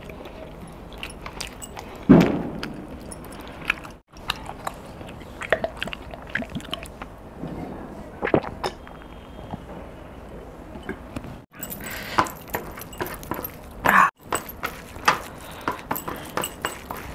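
Close-miked eating sounds: wet chewing, lip smacks and mouth clicks while eating pizza by hand, with a loud low thump about two seconds in. Partway through there are a few swallows of water from a glass.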